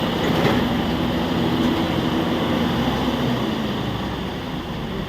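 Rail track tamping machine at work: a steady, loud run of heavy diesel machinery noise with a low hum, easing off a little near the end.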